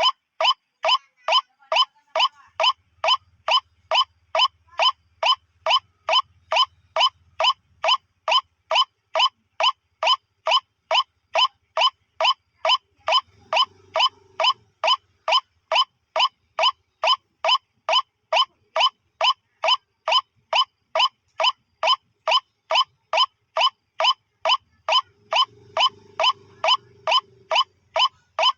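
White-breasted waterhen (ruak-ruak) lure call: one short, sharp note repeated very evenly, about twice a second, without a break.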